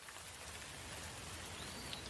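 Steady rain falling, an even dense hiss of drops, with a faint short high chirp near the end.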